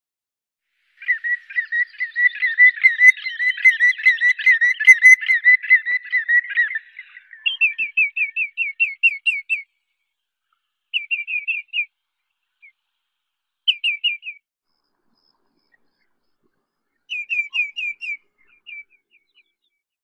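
A bird whistling. First a warbled, whistled trill lasting about six seconds, then several short runs of quick, falling whistled notes separated by pauses.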